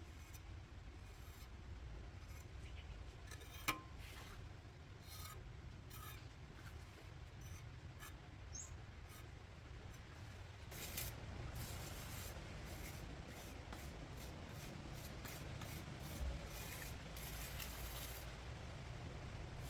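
Repeated short rubbing strokes, coming thicker in the second half, with one sharp click about four seconds in.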